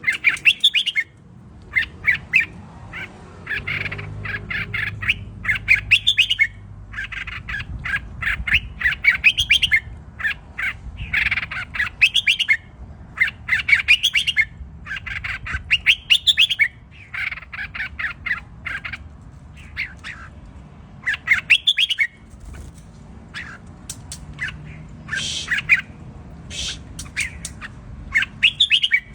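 Red-whiskered bulbul singing, repeating short warbled phrases every one to two seconds, over a low rumble.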